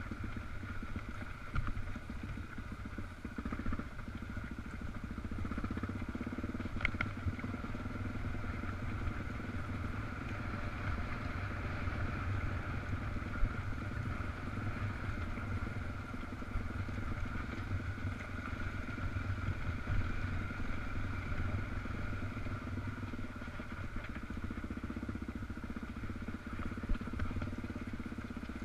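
Dual-sport motorcycle engine running steadily on a trail ride.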